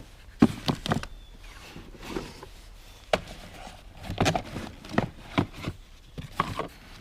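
Rummaging through a box of old tools and odds and ends: irregular knocks and clinks as hard objects such as whetstones and scissors are picked up and set down.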